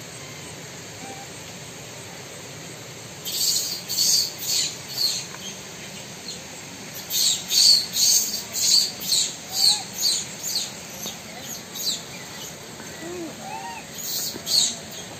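A bird calling: a run of short, shrill, high-pitched chirps, about two or three a second, starting about three seconds in and coming in three bouts, the middle one longest and fading as it goes.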